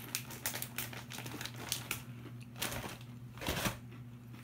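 Crisp almond pistachio biscotti thins being crunched in the mouth: a run of quick, irregular crackles, with a louder stretch about three seconds in.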